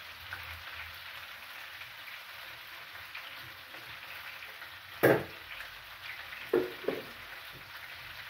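Fish, chicken, beef and potatoes sizzling steadily as they fry in oil in a pan. A sharp knock about five seconds in, and two lighter knocks about a second and a half later.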